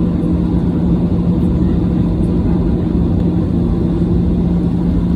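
Airliner cabin noise from the jet engines and airflow: a loud, steady rushing noise with a constant low hum underneath.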